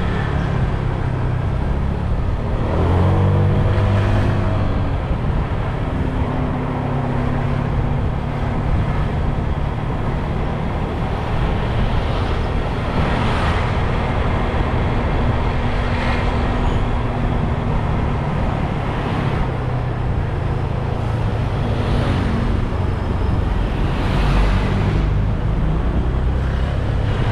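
Motorbike riding through traffic: its engine runs steadily under continuous road and traffic noise, with a short change in engine pitch about three seconds in.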